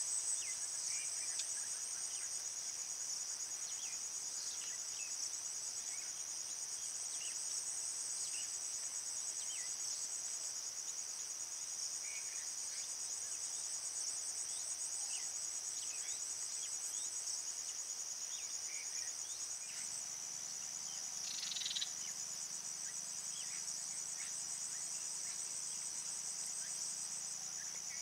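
Steady, high-pitched trilling of an insect chorus, with scattered faint short chirps and one brief louder call about three quarters of the way in.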